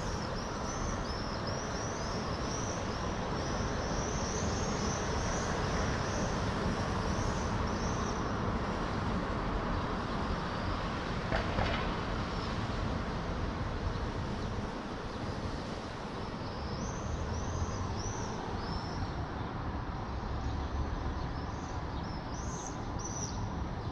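Swifts screaming: runs of rapid, high, shrill calls through the first third and again in the second half, over a steady rumble of city traffic.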